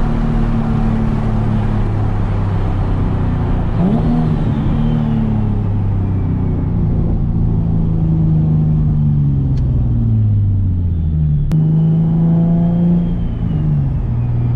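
Turbocharged Nissan 370Z's 3.7-litre V6 running under way. Its pitch jumps up briefly about four seconds in, then falls steadily for several seconds as the revs drop. A sharp click comes near the end, before the engine steadies.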